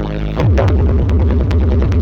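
Loud bass-heavy electronic dance music blasting from a large parade sound system stacked with subwoofers, with a falling sweep about half a second in.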